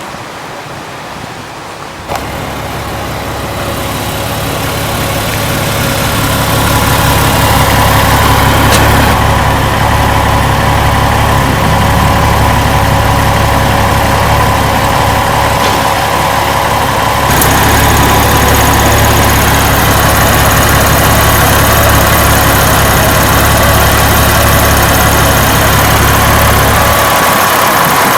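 Car engine running steadily. It starts abruptly about two seconds in and grows louder over the next few seconds.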